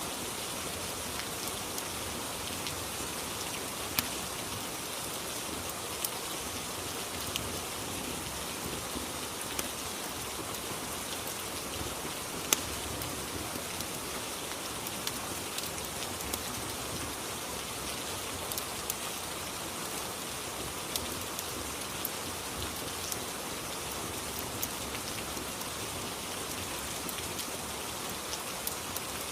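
Steady rain ambience, an even hiss of falling rain, with scattered sharp clicks or pops every second or two, the loudest about four seconds in and twelve seconds in.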